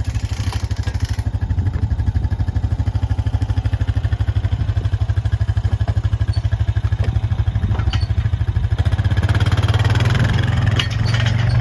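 An engine running steadily at low speed with a fast, even throb, getting a little louder near the end, with a few light clanks.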